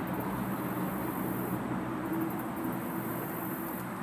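Steady outdoor background noise: a low, even rumble, with a high hiss that drops out about one and a half seconds in and returns for a while near the end.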